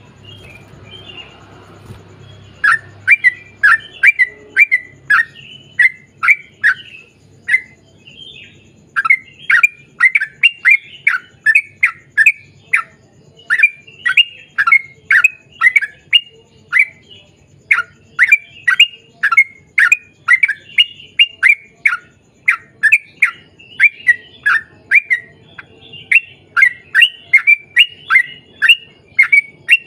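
Yellow-vented bulbul calling in a long, rapid string of short, sharp chirps, a few per second, starting about three seconds in and going on with only brief pauses.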